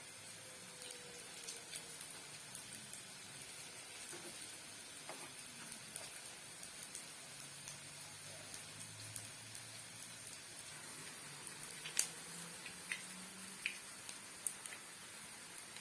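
Samosas frying in hot oil: a steady sizzle with scattered crackles and pops, the sharpest about twelve seconds in.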